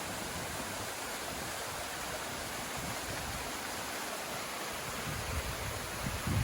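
Waterfall cascade: steady rushing and splashing water, with a few low rumbles near the end.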